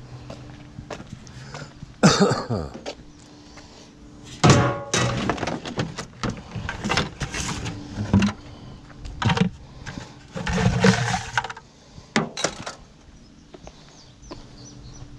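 Irregular metal clanks, knocks and scrapes from an air conditioner being taken apart by hand for its copper.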